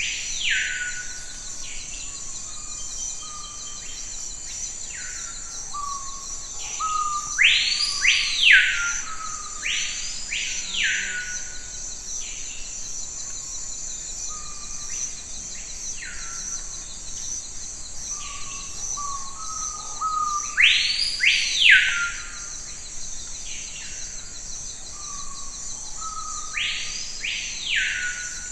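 Forest birds calling: loud, arching notes that sweep up and down, mostly in pairs, repeating every few seconds among softer short chirps, over a steady high insect buzz.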